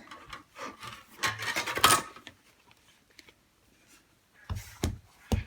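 Big Shot die-cutting machine and its hard plastic platform being handled and set down on a table: rustling and a clatter about a second in, then three dull thumps near the end.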